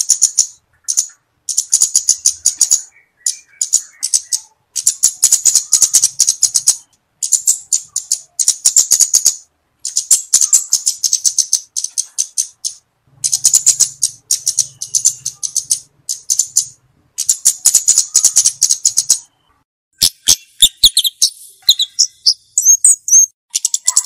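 Flowerpecker (burung cabe-cabean) singing loudly in repeated runs of very rapid, high-pitched dry ticking trills, each lasting a second or two with short pauses between. A few brief, higher whistled chirps come near the end.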